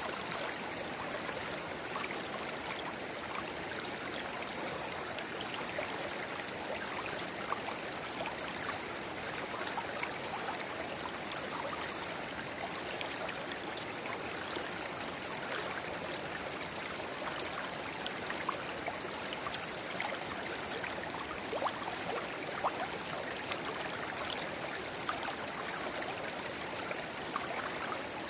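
Shallow river babbling steadily, with a small spring-fed stream trickling into it; many small splashes and gurgles over an even flow of water.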